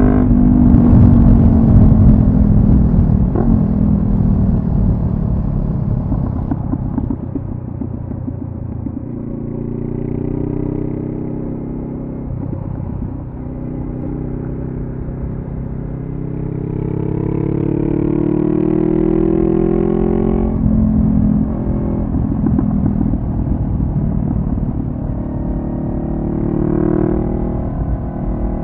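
2014 Honda CB500F's parallel-twin engine through a Delkevic carbon-fibre slip-on exhaust while riding, the note rising and falling with the throttle. It drops off over the first few seconds, climbs again, pulls steadily up until it cuts back sharply about twenty seconds in, then rises briefly once more near the end.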